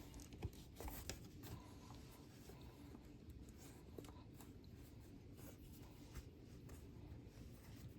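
Faint rubbing and a few light clicks of hands working a rubber boot back onto the end of a tractor drive shaft.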